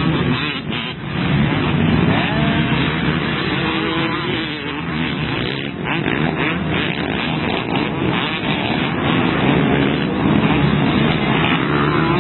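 Motocross bike engines running hard at race pace, their pitch rising and falling as riders rev through the gears and off the throttle.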